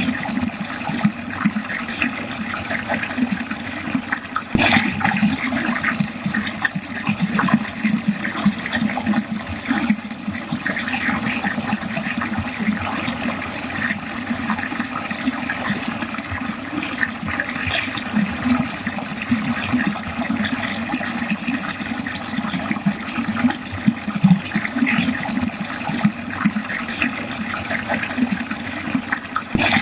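Water draining steadily down a drain, a continuous, uneven flow with no pauses.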